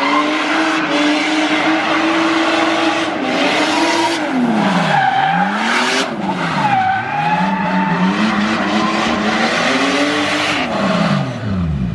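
Toyota Supra drift car's turbocharged stroker 2JZ inline-six revving hard while the tyres squeal and skid through a drift. The revs dip sharply and climb back several times, about a third, half and near the end of the way through.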